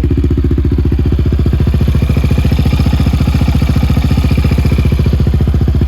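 Yamaha Raptor 700's single-cylinder four-stroke engine idling steadily, with an even, regular pulse.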